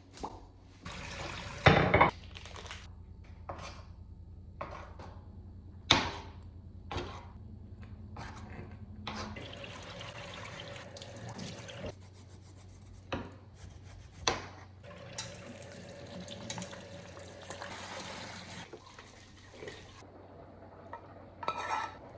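Kitchen work sounds: a string of knocks and clinks from pots, dishes and utensils, with water running from a faucet in two stretches of a few seconds each, over a low steady hum.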